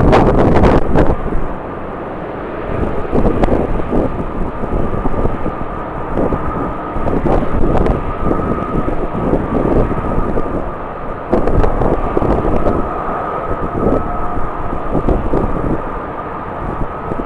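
Jet airliner engines running with a steady high whine, under gusts of strong wind buffeting the microphone.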